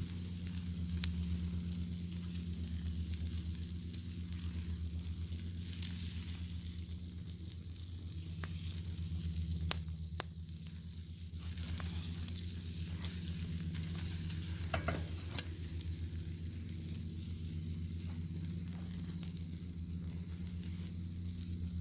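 Bacon sizzling in a pan over a fire: a steady frying hiss with scattered sharp pops and crackles, the loudest about ten seconds in, over a steady low hum.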